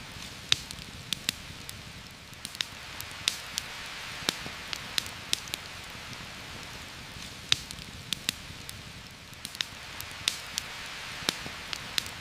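Steady heavy rain hiss with a campfire crackling over it: sharp, irregular pops, about one or two a second.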